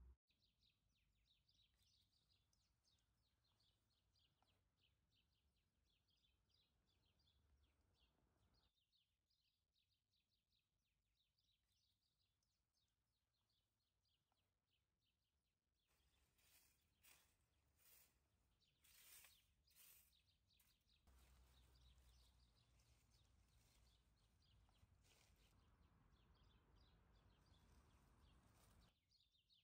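Near silence: faint outdoor background with distant birds chirping, and a few brief faint noises about halfway through.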